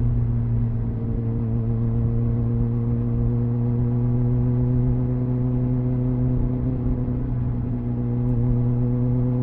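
Triumph Speed Four's 600cc inline-four engine through its stock exhaust, heard onboard while riding at a steady cruise; the engine note rises near the end as the throttle opens.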